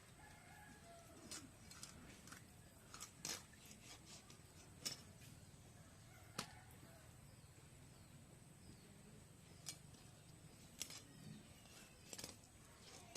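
Fish being cut into pieces with a blade: scattered sharp clicks and taps, about seven spread irregularly through the stretch. Faint bird chirps sound in the background.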